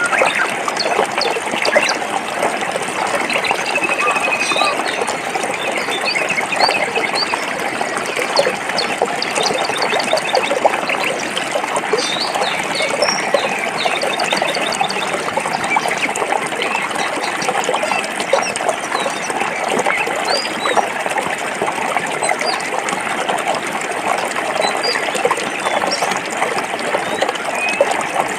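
A stream running over rocks, a steady rushing babble, with many short bird chirps and trills above it.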